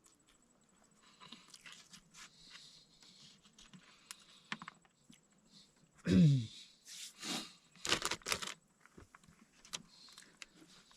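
Small clicks and rustles of food and packaging being handled, a short loud falling tone about six seconds in, then the sharp crack and hiss of a can of Coke being opened about eight seconds in.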